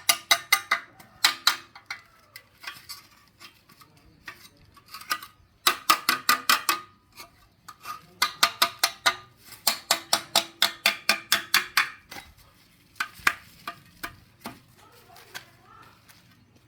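Metal striking metal in bursts of quick, ringing taps, about five or six a second, with short pauses between the bursts.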